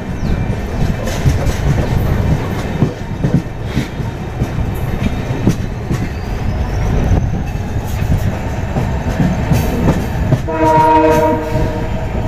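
Passenger train running along the track, heard from an open coach door: a steady rumble with the clatter of wheels over rail joints. About ten seconds in, a train horn sounds a chord of several notes for just over a second.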